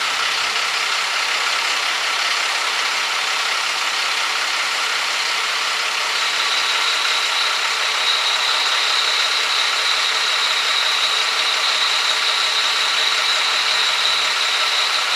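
Ford F800 dump truck's Cummins 5.9 turbo diesel engine running steadily at an even speed. About six seconds in, a steady high whine joins it.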